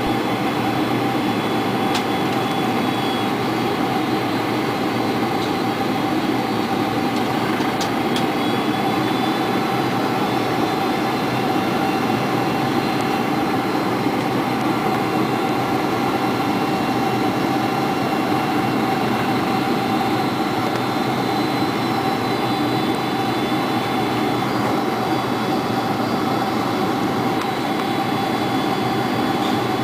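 Steady cabin noise inside a Boeing 747-400 on final approach: an even rush of engine and airflow noise with a steady tone running through it.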